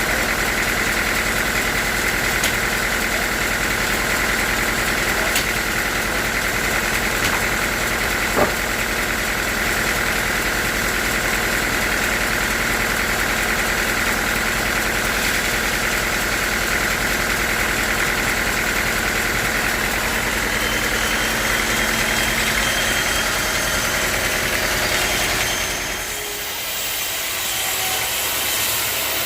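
Sawmill machinery running steadily with an even, engine-like hum and a few sharp knocks in the first third. The sound drops and changes abruptly near the end.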